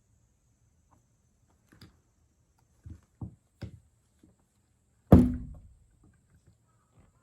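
Thuds and knocks from a kitten at play: a few soft knocks, then one loud thump about five seconds in that dies away quickly.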